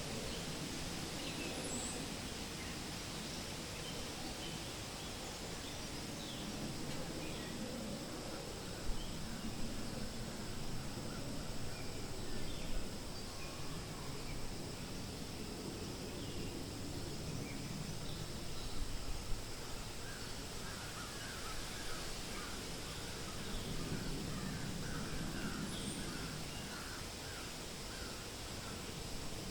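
Wind rustling through forest leaves in slow swells over a steady hiss, with birds chirping here and there. In the second half a bird gives a quick run of repeated notes.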